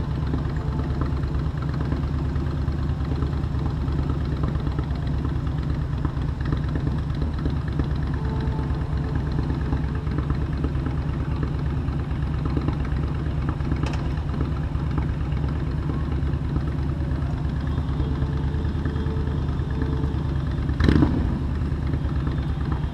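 Motorcycle engine running steadily at low revs, as at idle or slow riding, with a short loud thump near the end.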